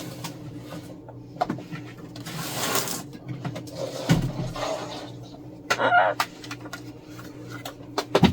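A parrot giving short calls, mixed with scattered knocks and clicks of objects being handled, over a faint steady hum.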